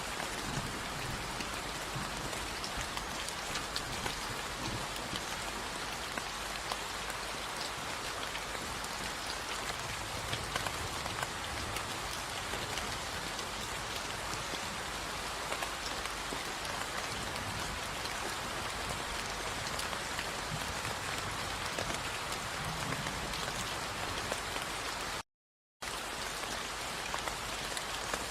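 Steady rain falling on a surface, a dense even patter of many drops at constant strength. Near the end it drops out to complete silence for about half a second, then resumes unchanged.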